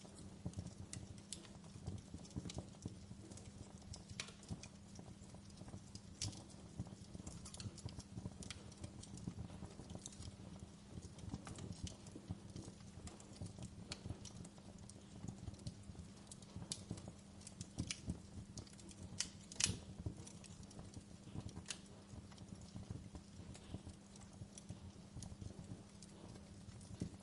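Wood fire crackling in a fireplace: small irregular pops and snaps over a low steady rumble, with one sharper pop about two-thirds of the way through.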